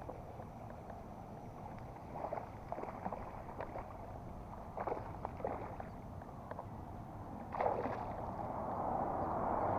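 A hooked bass being fought and brought alongside a kayak: scattered small knocks and water sounds, then splashing that starts about three-quarters of the way through and grows louder.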